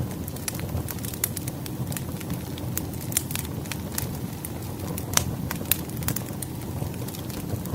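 Campfire crackling: frequent sharp pops and snaps over a steady low rush of burning wood, with a few louder snaps midway.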